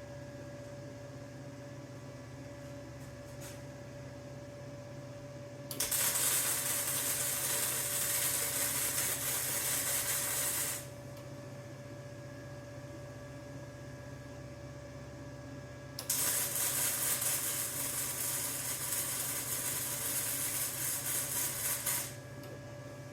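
A 110-volt MIG welder laying two welds on 3/16-inch steel body-mount plate, about five and six seconds long, each starting and stopping abruptly. A steady electrical hum runs beneath.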